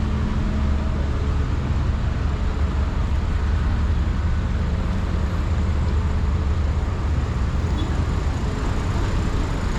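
Steady road traffic: a continuous low rumble of passing engines and tyres, with a faint engine hum that fades about two seconds in.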